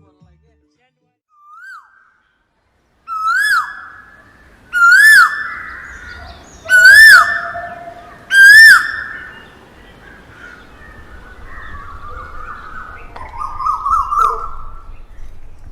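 A bird calling close by: a loud whistled note that rises and then drops, repeated four times at about 1.7 s intervals after a fainter first note, followed by softer, quicker chattering calls near the end.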